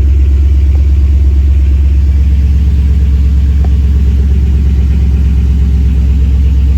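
Engine of a 1973 Chevy K20 pickup idling steadily with an even, fast pulse, left running to warm up to operating temperature.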